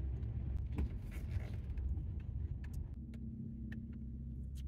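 Car engine and road rumble heard from inside the closed cabin while the car is driven slowly into a parking space, with a few light clicks. About three seconds in, a steadier low hum sets in.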